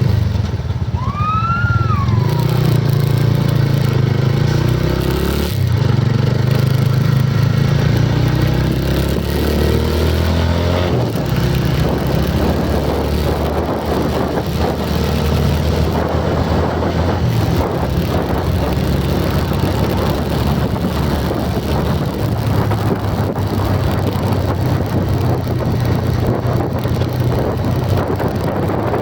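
A motor vehicle's engine running steadily with a low rumble, with a short rising-and-falling squeak about a second in.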